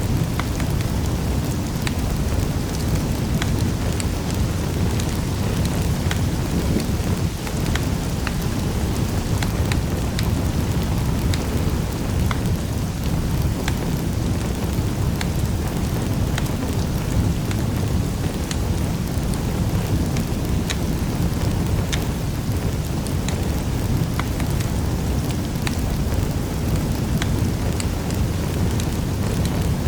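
Wood fire crackling in a fireplace: a steady low roar with irregular sharp pops and snaps scattered throughout.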